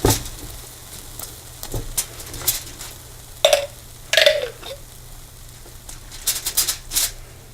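A kitchen utensil spreading pizza sauce over crisped garlic bread, in short, irregular scraping and tapping strokes.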